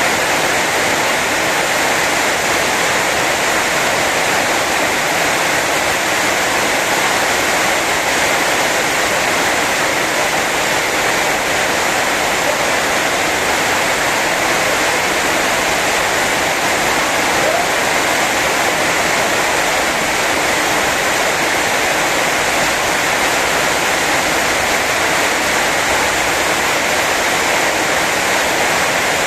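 Heavy rain falling in a steady downpour, a dense even hiss with no let-up.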